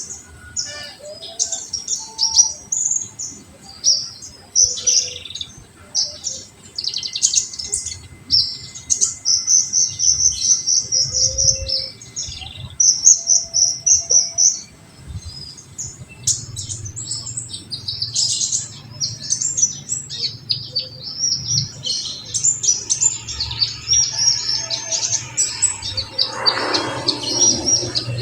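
Kolibri ninja sunbird song: a dense run of sharp, high-pitched chirps and fast trills in bouts, the rapid-fire 'tembakan' notes that keepers play as a lure to set other sunbirds singing.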